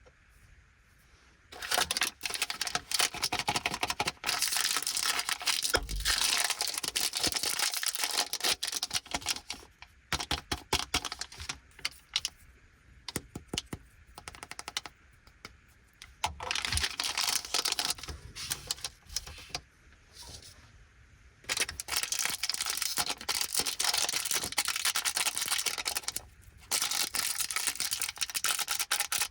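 Plastic candy wrappers crinkling and tearing as an Anpanman lollipop and then a small bag of Anpanman chocolates are opened by hand. The sound comes in stretches of dense crackling a few seconds long, with short pauses between them.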